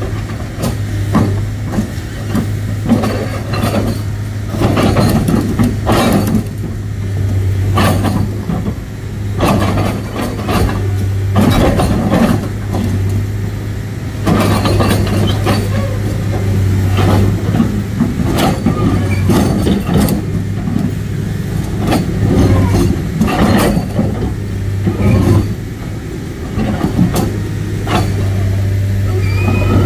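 Heavy diesel engine running steadily under load, with irregular clanks and knocks over it.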